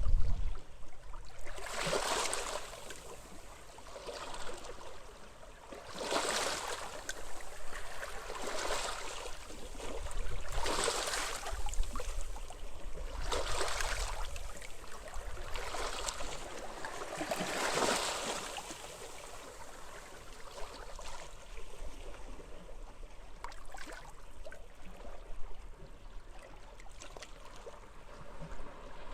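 Small sea waves washing up on a beach, a swell of rushing water about every two to three seconds, the swells weaker in the second half, over a steady low rumble of wind.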